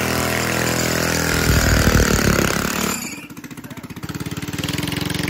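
The 99cc four-stroke engine of a gas mini bike running steadily. About three seconds in it drops to a quieter, evenly pulsing run that then builds again.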